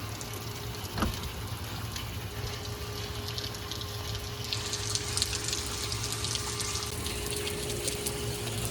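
Steady rain falling hard, a dense hiss of drops, with one sharp knock about a second in.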